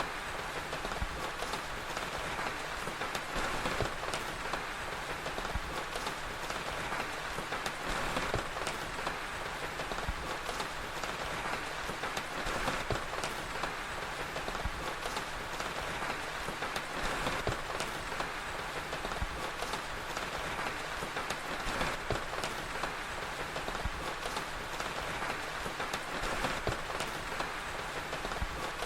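Steady rain ambience, with a crackling fire's small pops and snaps scattered through it.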